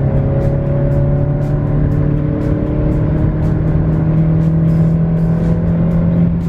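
Honda CR-V's 1.5-litre turbocharged four-cylinder engine pulling under acceleration, a steady drone whose pitch rises slowly.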